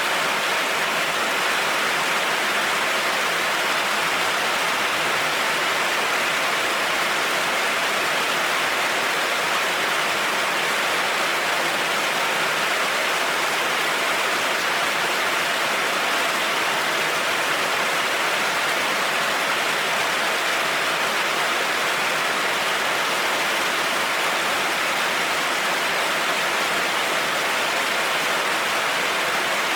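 Heavy rain falling steadily on a road, an even hiss with no thunder or changes.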